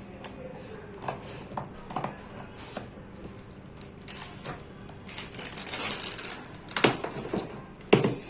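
Cardboard laptop box being opened and its packaging handled: scattered light clicks and taps, a rustling, sliding stretch past the middle, and two sharper knocks near the end.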